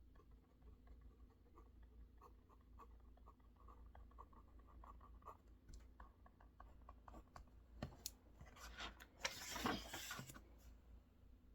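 Quiet desk work: a run of soft ticks and taps for several seconds, then a louder brushing rustle about eight seconds in that lasts a couple of seconds.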